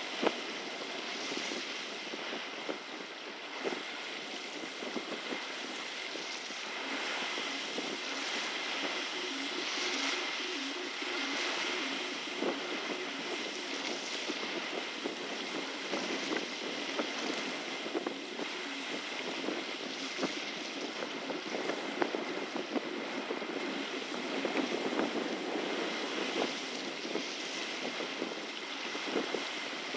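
Outdoor water-and-wind ambience: a steady rush of waves with wind on the microphone, scattered small knocks and clicks, and a faint steady high tone underneath.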